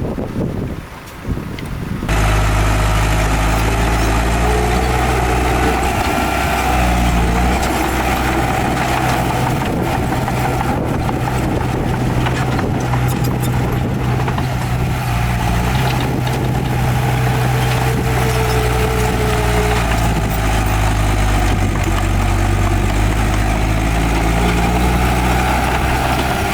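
Wind on the microphone for about two seconds, then a sudden change to a heavy diesel engine of earthmoving machinery running steadily close by.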